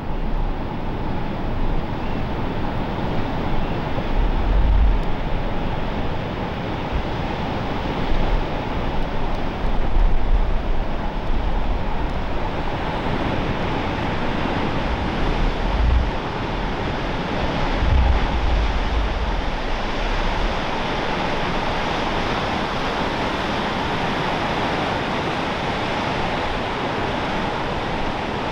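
Steady wash of ocean surf, with wind gusting against the microphone in short low rumbles a few times in the first two-thirds.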